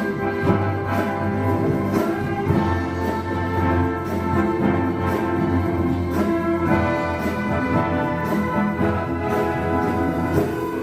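Symphony orchestra playing sustained full chords with the brass to the fore, over a steady pulse of strokes about twice a second.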